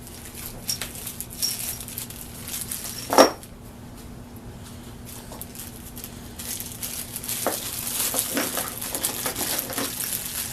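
Metal bolts and small hardware clinking and rattling as they are handled, with a sharp knock about three seconds in and busier clinking and rustling in the second half. A faint steady hum runs underneath.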